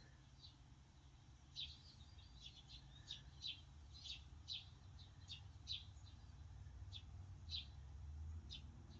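A small bird chirping over and over, short high chirps coming irregularly about one or two a second, faint over a low steady hum.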